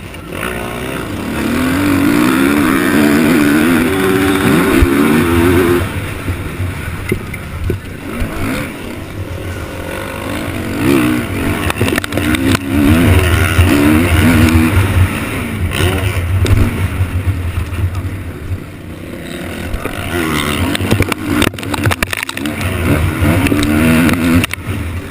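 Motocross motorcycle engines revving up and down as bikes race past, the pitch wavering and gliding with each throttle change, swelling loudest in three stretches.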